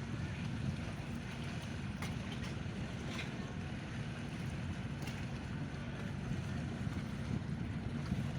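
Steady, low rumble of a ferry's diesel engines running.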